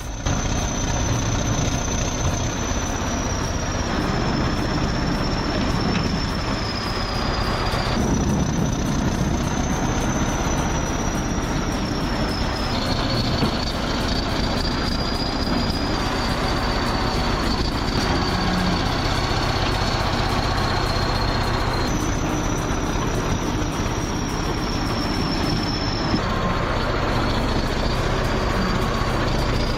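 Heavy diesel bulldozer working, its engine running steadily under load with a high thin whine that slowly falls in pitch. The sound jumps abruptly several times, as if cut between shots.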